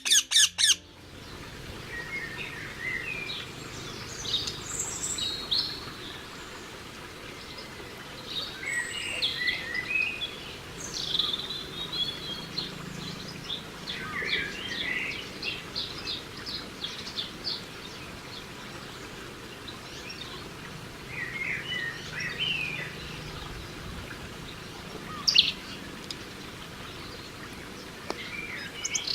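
Wild birds chirping and trilling, several short calls coming and going over a steady outdoor background hiss, with a sharp call about three-quarters of the way through. A few loud clicks sound right at the start.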